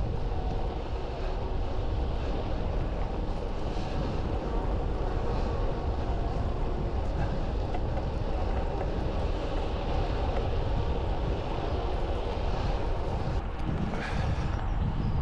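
Steady rumble of wind and road noise on the action camera's microphone while riding a bike, with no engine note.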